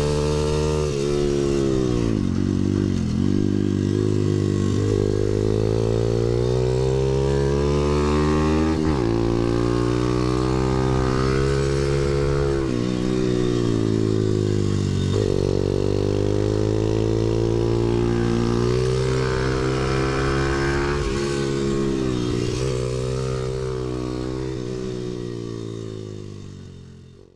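Pit bike engine running hard around a track, revs climbing and falling again and again through gear changes and braking for corners. The engine sound fades out near the end.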